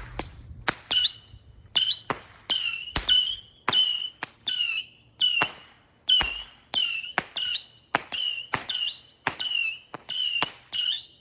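A lit firework going off in a rapid string of short whistling squeals, two to three a second, each starting with a sharp pop.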